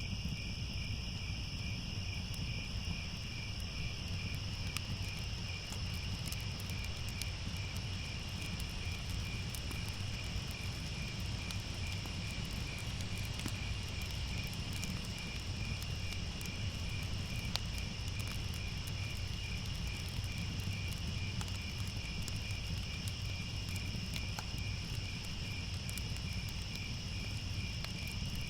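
Crickets chirping steadily in a dense chorus, several high pulsing trills layered together, over a low steady rumble with scattered faint crackles of a fire.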